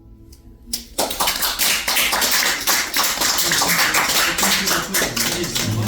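The last acoustic guitar chord dies away, then a small audience breaks into applause about a second in, at the end of the song.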